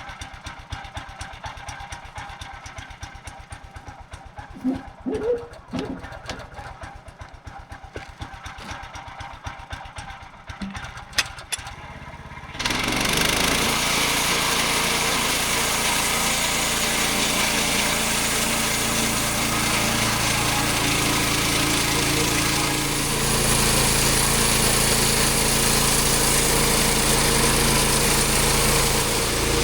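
Small gas engine of a Woodland Mills portable sawmill idling with a fast, even putter. About twelve seconds in, the sound jumps abruptly to a much louder, steady run at speed that holds to the end.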